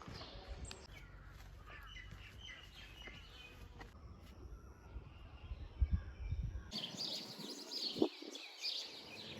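Small birds chirping and calling over a low rumble of background noise; about two-thirds of the way in the sound changes abruptly to denser, higher-pitched bird chirping with the rumble gone.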